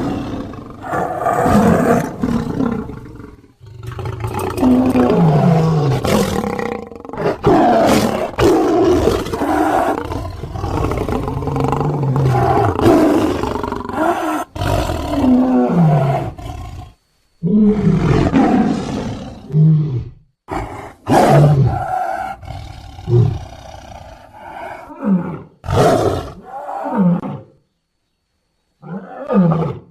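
Big-cat roars and growls, built from tiger and lion recordings as a creature voice for the extinct Simbakubwa: a long string of loud calls, many falling in pitch, broken by short silences in the second half, with one last short call near the end.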